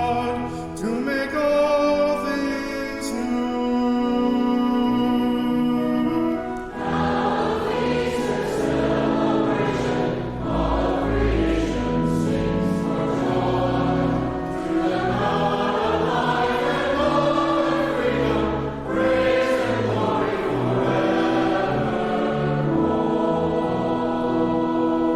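Church organ playing sustained chords, then a group of voices joins about seven seconds in, singing a hymn together over the organ.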